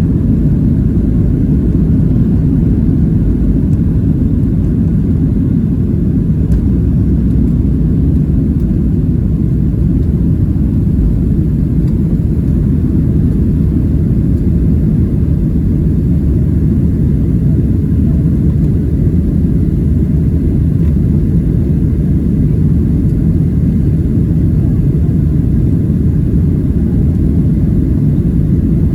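Steady low rumble inside the cabin of a Boeing 737-700 in its climb after takeoff: CFM56-7B engines at climb power and airflow noise, unchanging throughout.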